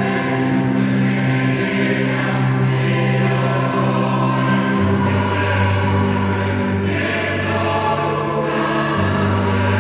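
Mixed choir singing sustained chords, the lower voices moving to new notes about every three to four seconds.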